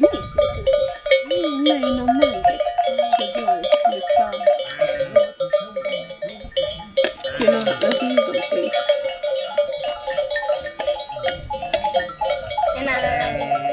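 Neck bells on a flock of goats and sheep clinking and jangling without a break as the animals move, with a goat or sheep bleating a couple of times, about halfway through and again near the end.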